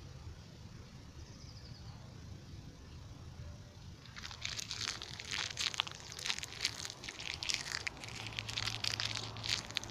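Dry grass and paper crackling and snapping as they burn, starting about four seconds in after a stretch of low steady background noise.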